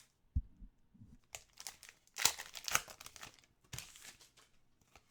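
Plastic crinkling and rustling as trading cards and their packaging are handled, in a string of short strokes that are loudest a little past the middle. It comes after two soft low thumps in the first second.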